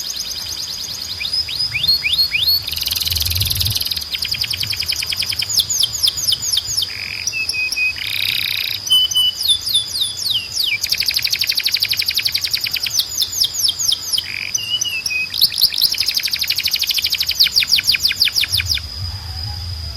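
Male canary singing: phrases of rapid trills and quick falling notes, with short breaks between them and a steady high whistle note running underneath.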